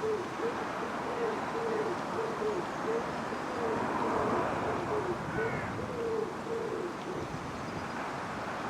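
A pigeon cooing: a run of short, low, repeated coos in a steady rhythm, over steady outdoor background noise, with a brief higher chirp from another small bird about five and a half seconds in.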